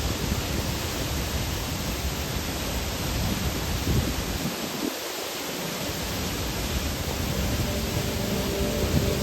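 Soochipara waterfall: the steady rush of falling water, with a gusty low rumble underneath that drops away briefly about halfway through.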